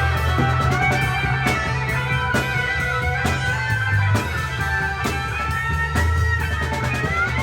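Live rock band playing an instrumental passage: sustained, gliding electric guitar lines over bass and a steady drum beat.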